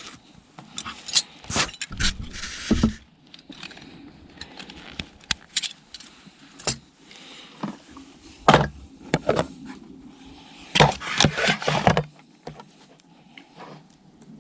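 Clinking and knocking of camp cups, dishes and utensils being handled, in irregular clusters of sharp clinks.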